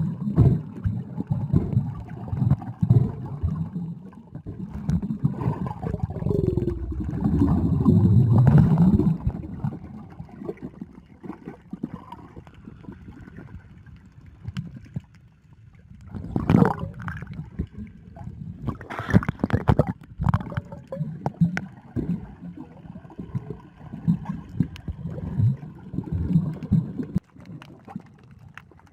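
Sea water gurgling and sloshing as heard underwater, a muffled churning with many small knocks and bubbling, loudest over the first nine seconds and quieter after, with a few sharper splashy bursts later on.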